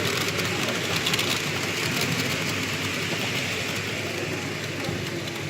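Model train running along a layout's track: a steady rolling hiss.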